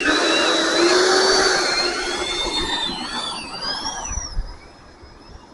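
Electric ducted fan of a 70 mm Freewing F-16 RC jet whining in flight, its pitch wavering up and down. The sound fades over the last few seconds and drops away about four and a half seconds in.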